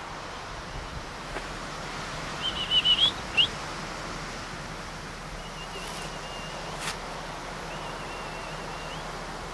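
A bird calling: a quick cluster of short, high, rising chirps, then two thin, wavering whistled notes, over a steady hiss.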